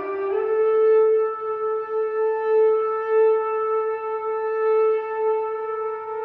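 Music: a wind instrument slides up into one long, steady held note and sustains it, swelling a little in loudness.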